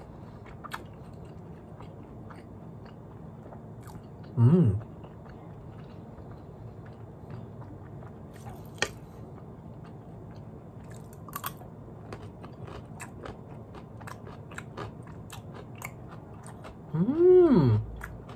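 Close-up chewing of a mouthful of rice with crunchy cucumber and pickled radish: many small wet clicks and crunches. A short hummed "mm" about four and a half seconds in, and a longer "mmm" that rises then falls in pitch near the end.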